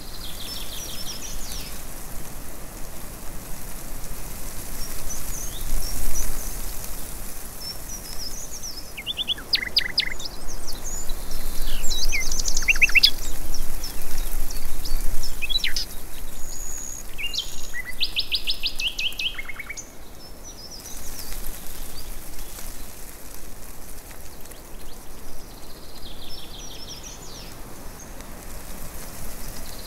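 Birds chirping and calling over a steady hiss, with several fast, rattling trills in the middle stretch, where it is loudest.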